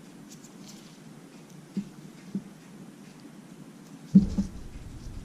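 Quiet handling noises from work on an opened iPad Mini: a few light clicks and taps, with a heavier bump about four seconds in.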